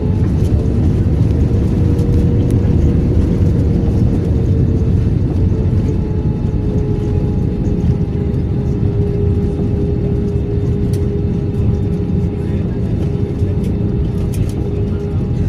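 Airbus A320 jet engine noise heard inside the cabin: a steady low rumble under a steady whine, the whine dropping slightly in pitch about five seconds in.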